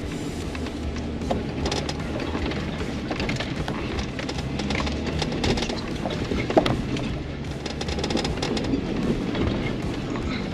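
A 4x4 crawling over a rocky trail: the engine runs low, with rocks crunching and knocking under the tyres and one sharp knock about six and a half seconds in. Music plays underneath.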